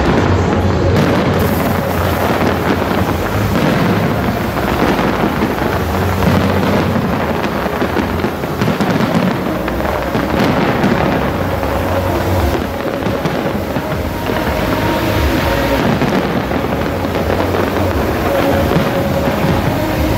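A continuous barrage of fireworks going off: many overlapping bangs and crackles in rapid succession, with music playing underneath.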